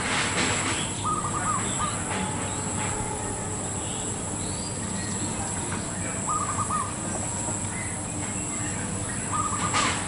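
Zebra dove (perkutut) calling: three short bursts of rapid staccato cooing notes, about a second in, just past the middle, and near the end, over steady outdoor background noise. Brief noisy bursts come at the start and just before the end.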